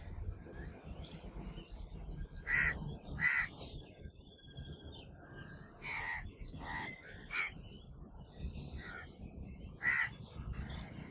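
Crows cawing: about six harsh calls, in groups of two or three.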